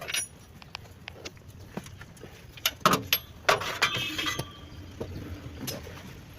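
Metal tools and parts clinking and knocking in hand work, with a few louder knocks about three seconds in and short ringing clinks after them.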